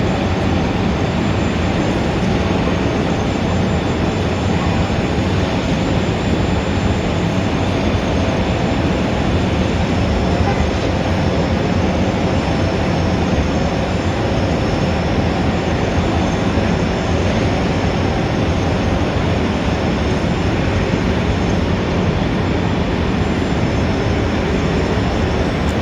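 Steady city street traffic: a dense, even rumble of many vehicles with a few faint steady engine tones and no single event standing out.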